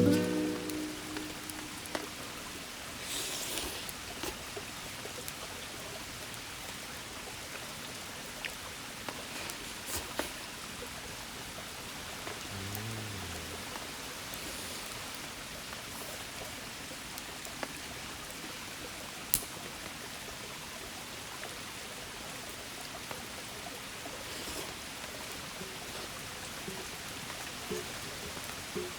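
A shallow river running over rocks: a steady, even rushing murmur, with a few faint clicks.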